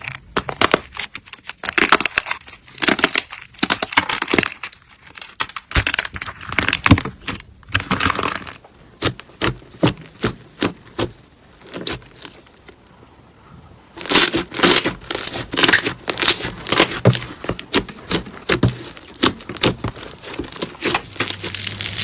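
Slime being pressed and worked by hand, giving dense runs of sharp crackling pops. The pops thin out to scattered clicks for a few seconds in the middle, then come thick again.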